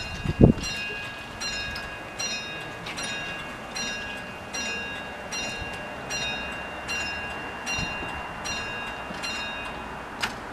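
Level crossing alarm bell striking repeatedly, about once every 0.8 seconds, with a ringing tone that carries between strikes; the ringing stops shortly before the end. A low thump comes about half a second in, and a sharp click near the end.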